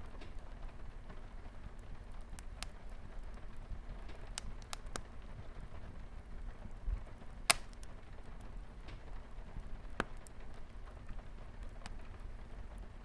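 Fireplace fire crackling, with sharp pops scattered through it, the loudest a little past halfway, over a steady hiss of light rain on a window.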